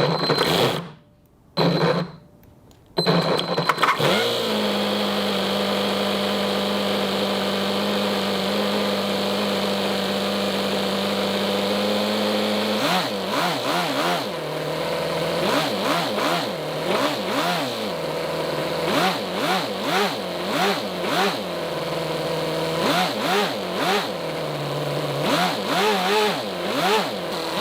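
Toyan FS-L400 miniature inline four-cylinder glow-fuel engine starting: a few short bursts, catching about three seconds in, then running at a steady idle. From about halfway through it is revved again and again in quick blips, each rising and falling in pitch, a high buzzy sound likened to a little F1 engine.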